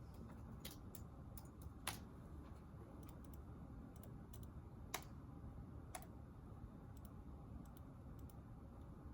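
Quiet, steady room hum with a few scattered sharp clicks and taps from desk work, the loudest about two seconds in and another about five seconds in.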